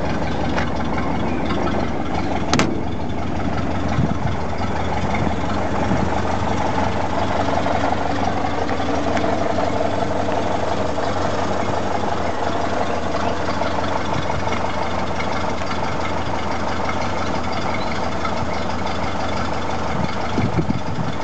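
1930 Ford Model A's four-cylinder flathead engine idling steadily. There is a sharp click about two and a half seconds in.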